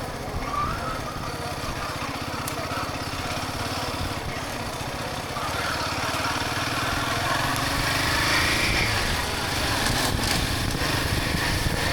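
Motorcycle engine running steadily while riding, getting a little louder about six seconds in.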